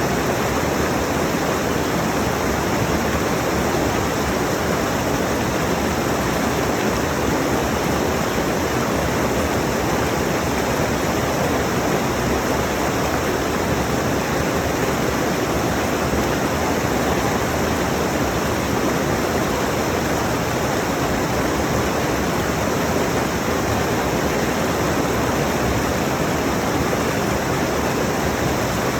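Mountain stream rushing steadily over rocks, a dense even wash of water noise.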